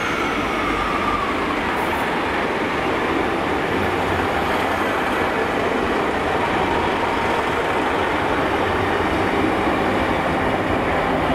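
Class 150 Sprinter diesel multiple unit running past along the platform: a steady mix of underfloor diesel engine and wheels on the rails.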